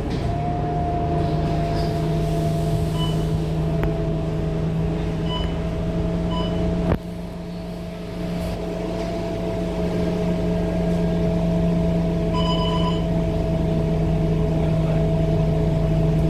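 Scania K230UB bus's diesel engine and driveline running under way, a steady drone with a whine over it. About seven seconds in there is a knock, the sound drops away, then it builds back up. A few short, faint beeps sound along the way.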